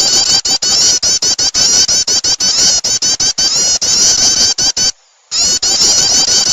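Prinia (prenjak) calls played as a bird-lure track: loud, rapid high chirps, many notes a second in a dense run, breaking off briefly about five seconds in.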